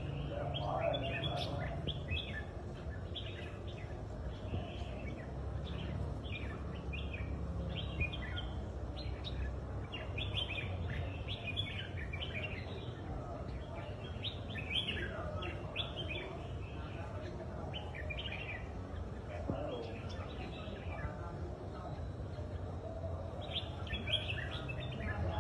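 Red-whiskered bulbul singing: short phrases of quick, high chirps repeated throughout, with a brief lull a little before the end, over a steady low background hum.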